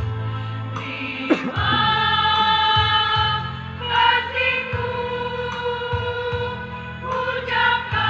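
School choir singing long held notes in harmony over a steady low instrumental accompaniment, moving to new chords a few times. A sharp click is heard about a second in.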